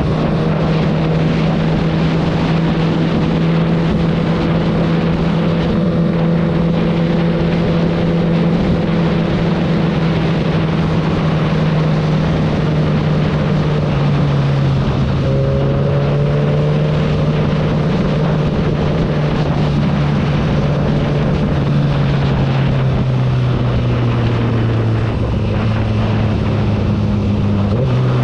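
Honda CBR1000RR SP1's inline-four engine running under way, with wind noise over the microphone. The engine's pitch drops in steps a few times, around the middle and again near the end.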